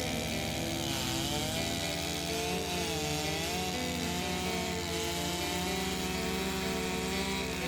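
A small gasoline engine running steadily, under background music whose chords change a couple of times.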